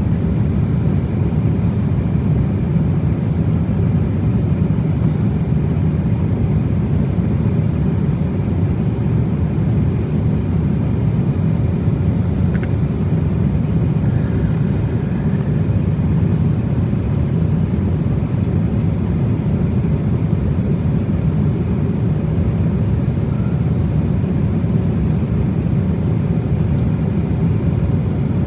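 Steady cabin noise of an Airbus A350-1000 airliner in cruise: an even low rumble of airflow and engines.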